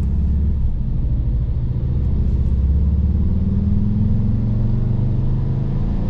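Warm 2016 VW Jetta GLI's 2.0-litre turbocharged four-cylinder petrol engine (EA888 gen 3) running smoothly, its pitch slowly rising from about halfway in. Once running, the diesel-like clatter it makes at start-up is gone and it sounds nice, though the owner finds the power lacking.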